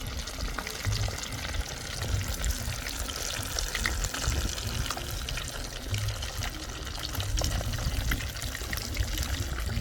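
Tilapia frying in hot oil over a wood fire: a steady sizzle dotted with many small pops and crackles.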